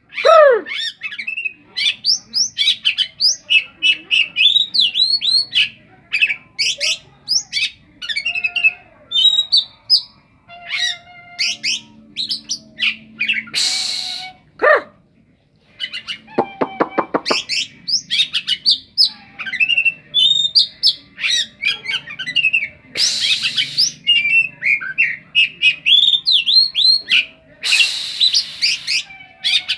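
Oriental magpie-robin (kacer) singing a long, rapid, varied song of chirps and whistled slurs, broken by a few harsh rasping calls and a short buzzy rattle near the middle. The song is full of mimicked calls of other birds, with a shrike-like (cendet) character.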